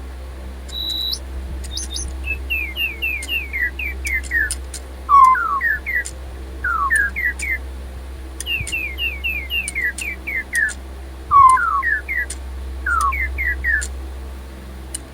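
Robotic DigiBird toy birds chirping an electronic song of quick, falling whistled notes in repeated runs, with small clicks and a short steady beep about a second in. The toys are running on nearly flat AAA batteries.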